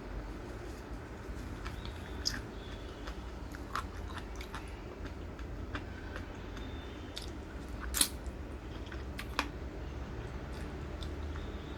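A person biting and chewing crunchy food close to the microphone, with scattered sharp crunches; the loudest crunch comes about eight seconds in.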